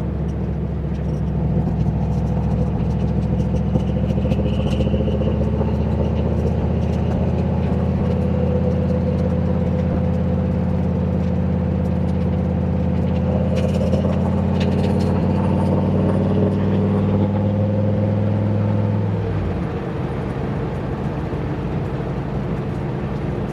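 Turbocharged 351 Windsor V8 in a Ford Foxbody Mustang idling steadily through its new exhaust. It is shut off about nineteen seconds in, leaving a lower steady rumble.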